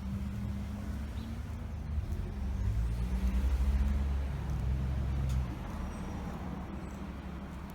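2008 Scania K270 city bus's five-cylinder diesel engine running under way, heard from the driver's seat; it pulls harder and grows louder about two seconds in, then eases off after about five seconds.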